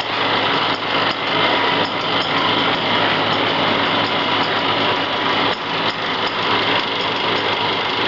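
Plastic-bag screen-printing machine running with a steady, loud mechanical clatter over a constant motor hum, with a few faint knocks.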